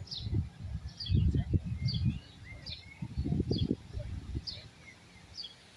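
A bird repeating short high chirps about once a second, over irregular low rumbling bursts that die away after about four seconds.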